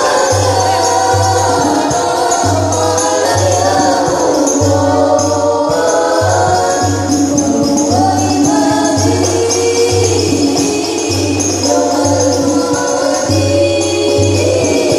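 A group singing a sholawat (Islamic devotional song) in unison, accompanied by a hadrah-style percussion ensemble. Low frame-drum strokes keep a steady beat under jingling tambourine.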